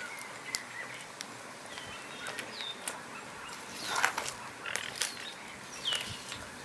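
Small birds chirping outdoors: a few short separate calls about two seconds apart, over a steady background hiss with scattered sharp clicks.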